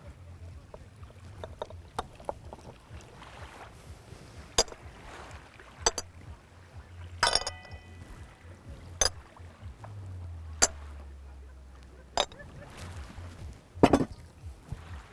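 Irregular sharp knocks and clinks, about seven spread out, with one ringing briefly and the loudest near the end, over a low steady rumble.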